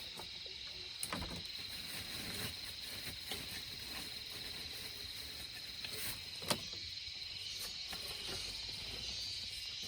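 Steady high-pitched drone of insects, a cricket-like chorus, with a few sharp knocks, the loudest about six and a half seconds in.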